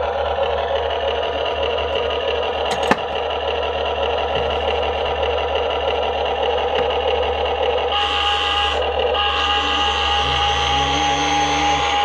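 Huina 1593 RC excavator's small electric motors and gearboxes whirring steadily as it works, with a single sharp click about three seconds in and a brief higher-pitched whine joining around two-thirds of the way through.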